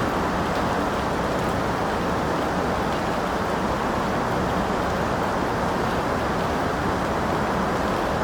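Steady, heavy rain falling as an even hiss, with no breaks or changes.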